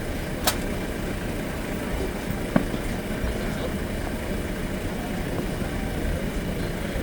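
Busy city street ambience: a steady low rumble of traffic with a murmur of voices, broken by two short sharp cracks about two seconds apart.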